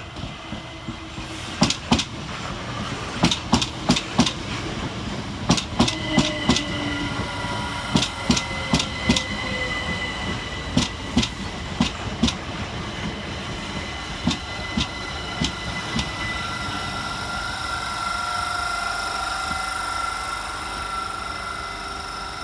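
Southern Class 387 Electrostar electric multiple units running into the station: the wheels clack over rail joints in repeated groups of clicks, spaced further apart as the train slows. In the second half, steady electric whining tones from the traction equipment grow stronger.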